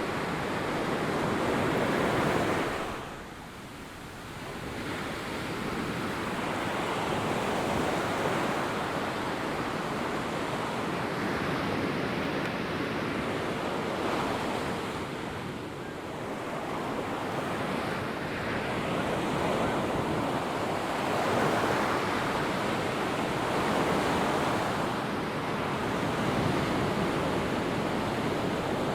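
Ocean surf breaking on a sandy beach, a steady wash that swells and falls back every few seconds, with a short lull about three seconds in. Wind buffets the microphone now and then.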